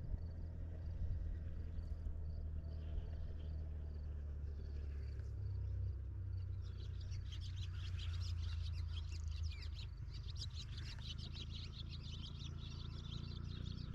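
Birds chirping over a steady low rumble. The chirping thickens into a busy twittering about halfway through.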